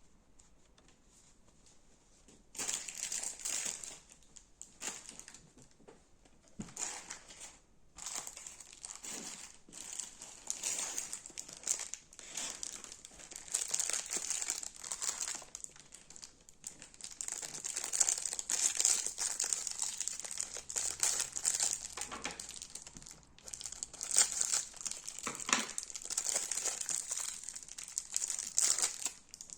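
Crunchy slime being squeezed and pressed by hand, giving a dense crackling of tiny pops and crunches. It starts about two and a half seconds in and comes in waves with short pauses.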